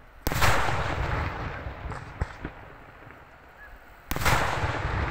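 Daytime aerial firework shells bursting overhead: a loud bang just after the start and another about four seconds in, each followed by a long rolling echo, with a few fainter cracks between.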